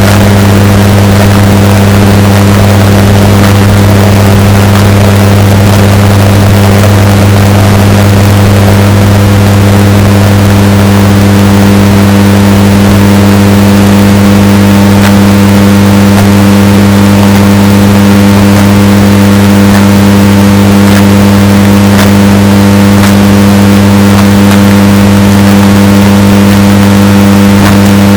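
Washing machine running, heavily bass-boosted and distorted: a steady, very loud low hum with a few fixed tones over a harsh noisy rumble, unchanging throughout.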